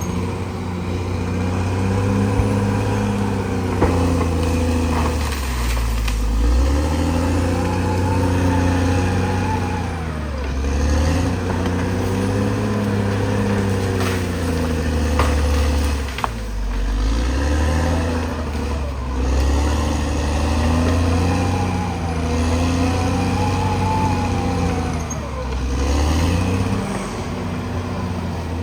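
Caterpillar D6R XL bulldozer's diesel engine working under load. Its pitch sags and recovers every few seconds as it pushes, with a few sharp clanks.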